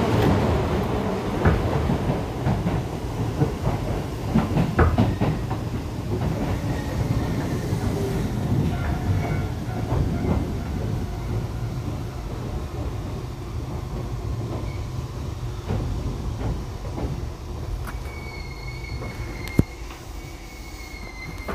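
Keisei 3500 series commuter train running on track, with wheels clicking over rail joints; the running noise fades gradually. A thin high squeal comes in near the end.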